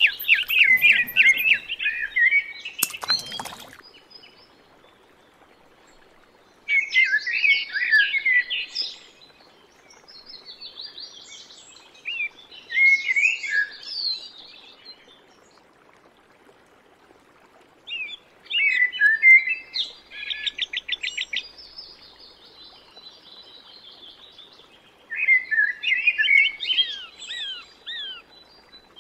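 Small birds singing in separate bouts of quick chirps and trills, with quiet gaps of a few seconds between them. One sharp click about three seconds in.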